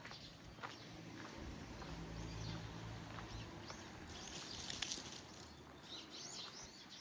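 Small birds chirping in short calls, loudest a little past the middle and again near the end, over soft footsteps; a low hum swells in and fades out through the middle.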